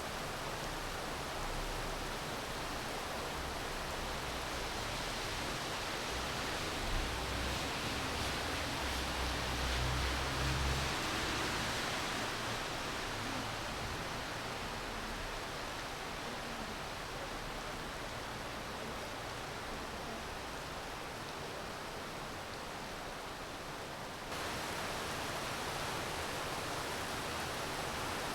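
Steady rainfall as an even hiss, with a low rumble swelling and fading in the middle. The sound steps up abruptly a few seconds before the end.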